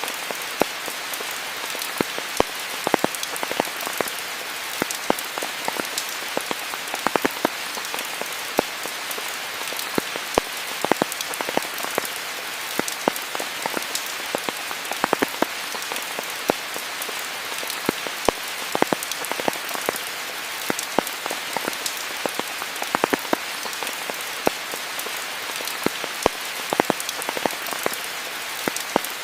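Steady rain falling, a constant hiss with many distinct, sharp drop impacts close by.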